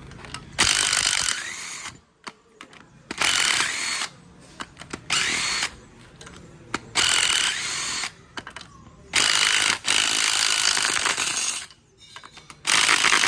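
Power drill spinning out bolts on a 5.3 V8 engine: six separate bursts of about one to two seconds each, the motor pitch rising as it spins up, with quiet gaps between.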